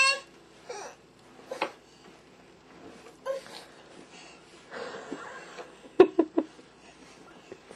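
A toddler's short breathy noises and snuffles, scattered and quiet, with a quick cluster of three or four sharp knocks about six seconds in.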